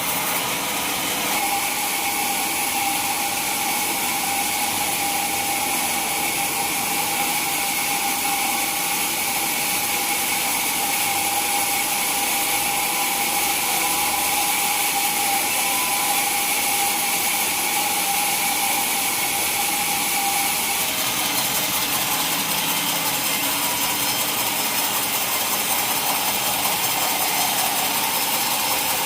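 Sawmill saw running steadily as it cuts through a mahogany log, with a high whine that drops away about two-thirds of the way through.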